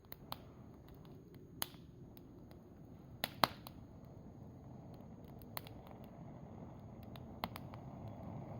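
Campfire crackling: scattered sharp pops and snaps, one louder about three and a half seconds in, over a steady low rush.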